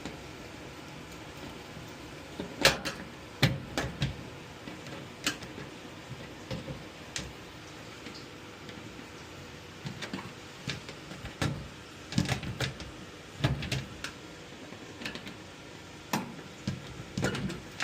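Sheet-metal access panel of a Heil gas furnace being unlatched and lifted off, a string of irregular metal clicks and clanks with a few louder knocks.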